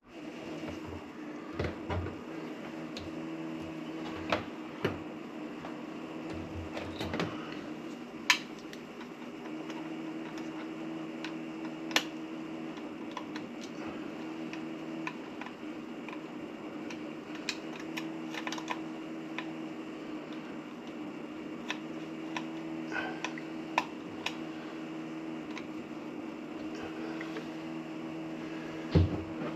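Scattered light clicks and taps of hands handling wires and small electrical parts, over a steady hum.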